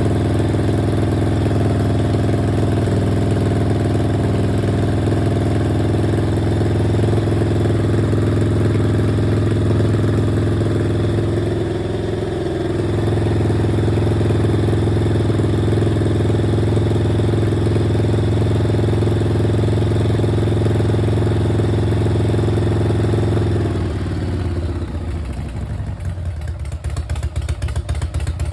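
Harley-Davidson V-twin engine idling steadily while its charging system is checked. It dips briefly about halfway through, then slows near the end to a slower, lumpy idle with separate firing pulses.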